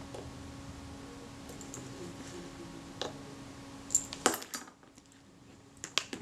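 Small screwdriver working the tiny screws of a Pronto camera shutter, with a few sharp metallic clicks and clinks about three, four and six seconds in.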